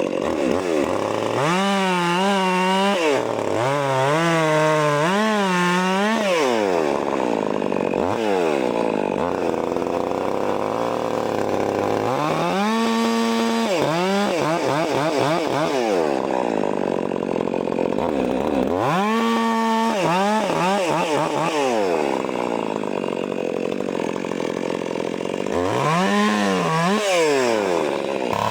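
Stihl MS 400 C chainsaw cutting wood: about five times it revs up to full throttle, its pitch wavering and dipping under the load of the cut, then falls back toward idle between cuts.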